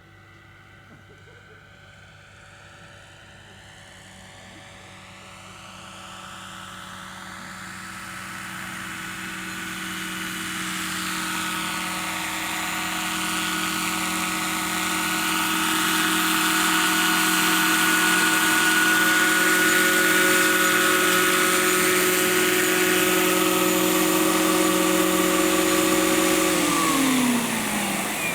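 Scale model Lockheed 286 helicopter flying toward the listener, its high whine and rotor sound growing steadily louder for about twenty seconds. Near the end the pitch drops sharply as it passes by.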